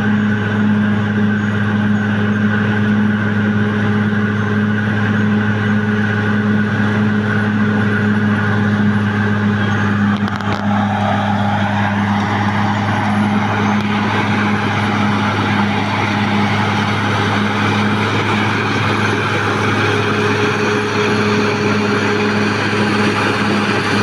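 Caterpillar D6R XL bulldozer's diesel engine running steadily with a deep drone. A bit over ten seconds in, a rising whine sets in and the sound turns harsher.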